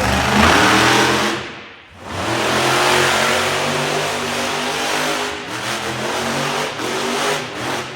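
Monster truck engine revving hard, with the throttle dropping off briefly about two seconds in before it revs up again.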